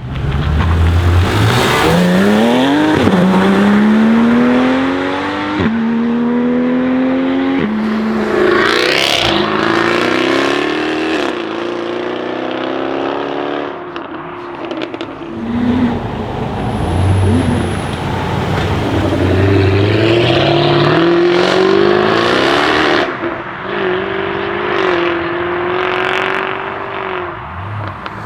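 Jaguar F-Type V8 R's 5.0-litre supercharged V8 accelerating hard, its note climbing and dropping back at each quick upshift, over several loud pulls.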